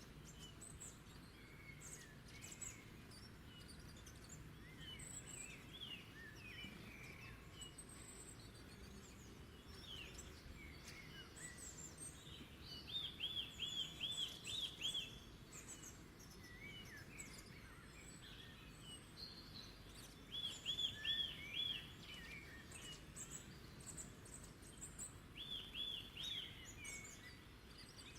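Several wild birds singing and chirping, one of them repeating a quick run of about half a dozen evenly spaced notes three times, which are the loudest sounds, over a steady low background hiss.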